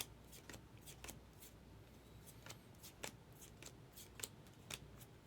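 Baseball cards being flipped and slid through by hand one at a time: a run of faint, short card flicks, about two a second.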